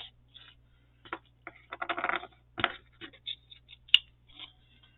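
Light rustling, clicks and taps of paper and small craft pieces being handled and sorted on a table, with a sharper tap about four seconds in.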